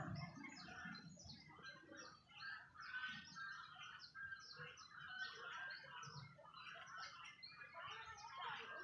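Small birds chirping: many short calls overlapping in a dense, continuous chorus, heard faintly.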